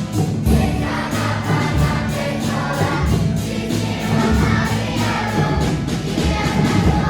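Music with a steady beat: a group of voices singing together over instrumental accompaniment.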